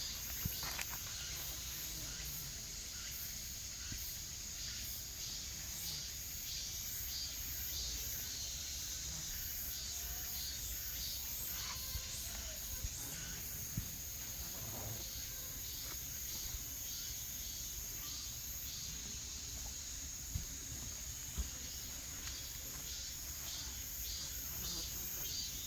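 Steady high-pitched insect chorus, like crickets, over a low outdoor rumble, with a few faint ticks.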